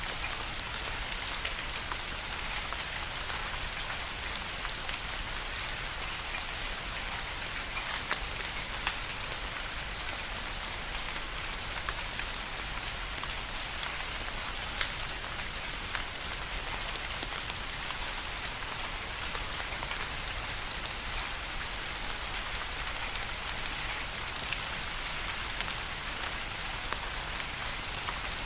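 Steady rain falling, an even hiss with many individual drops pattering.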